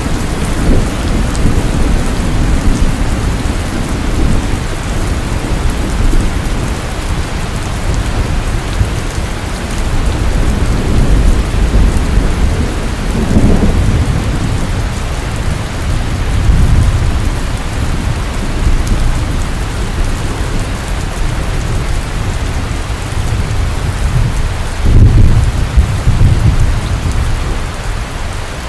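Steady, heavy rain falling at night, with low rumbles that swell several times, the loudest about twenty-five seconds in.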